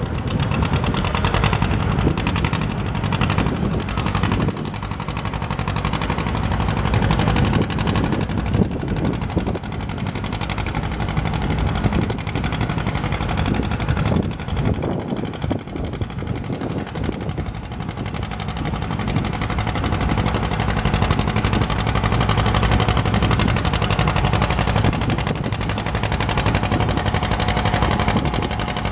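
Antique farm tractor engine working hard under load in a tractor pull, its exhaust firing in rapid, even beats. Loudness swells and eases several times.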